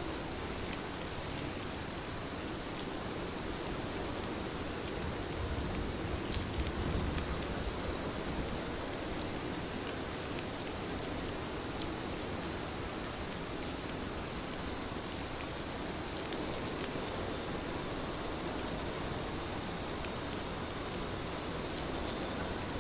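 Heavy rain falling steadily: a dense, even hiss with scattered small drop ticks, swelling slightly in the low end about six to seven seconds in.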